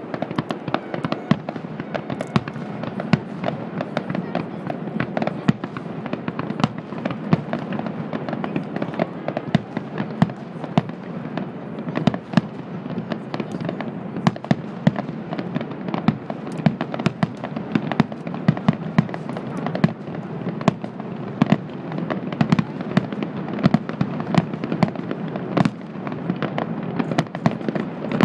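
A fireworks display with shells bursting in quick succession: a dense, continuous string of sharp bangs and crackles over a steady rumble.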